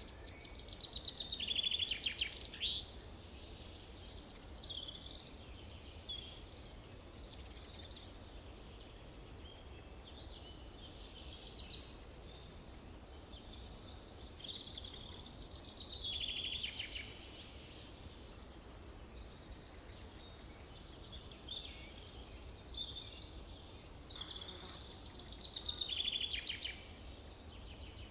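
Forest songbirds singing, several overlapping songs of quick trills and short whistled phrases. The loudest trilled songs come about two seconds in, around the middle and near the end, over a faint steady low hum.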